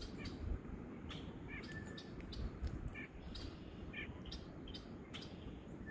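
Wild birds calling at a feeder: a few short chirps spread through, with faint clicks.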